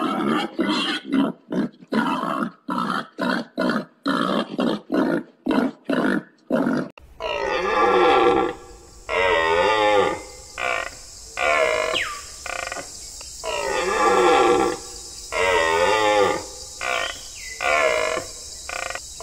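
Young domestic pigs grunting in quick short grunts, about three a second, for the first seven seconds. Then red deer calling: long, wavering calls that slide in pitch, repeated every second or two.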